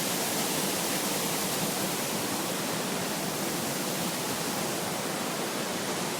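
Steady rush of water pouring over a small waterfall, an even hiss with no breaks.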